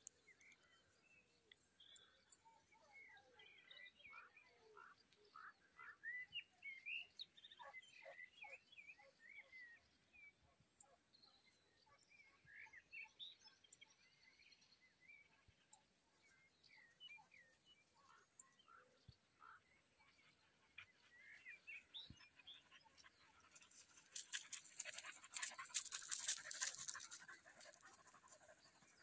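Faint birdsong: many short, scattered chirps and calls. About 24 seconds in, a louder, rough, noisy burst lasts two or three seconds.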